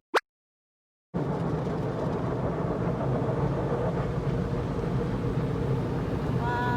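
Steady vehicle rumble with a hiss over it, starting about a second in after a brief silence.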